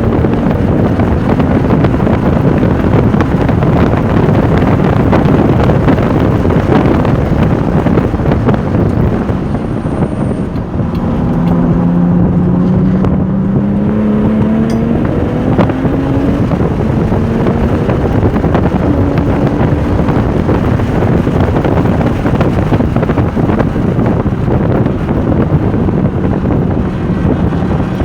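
Porsche 996 Turbo's twin-turbo flat-six running hard, with heavy wind noise on the microphone. The engine note drops briefly about ten seconds in, then climbs steadily in pitch.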